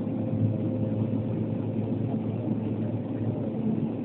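Steady drone of the Antonov An-140's twin turboprop engines and propellers heard from inside the passenger cabin, a low hum with a few held tones.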